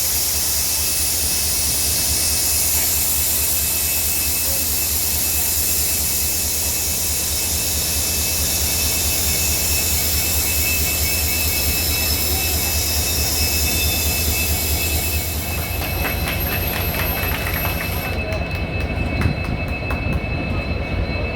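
Passenger train running along the line: a steady rush of wheels on rail with a thin high squeal. About 16 to 18 seconds in the hiss drops away, leaving a lower rumble with a run of clicks.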